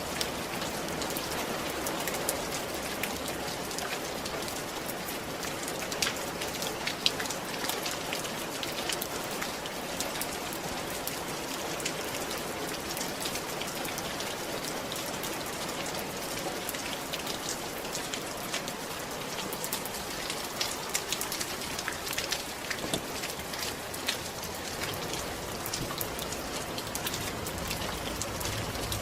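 Steady rain falling on a roof, an even patter with many separate drop ticks, a few louder drops standing out.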